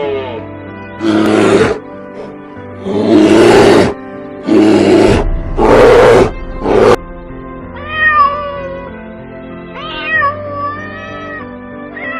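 A cat makes five loud, harsh cries in quick succession, then several shorter, higher meows, over background music.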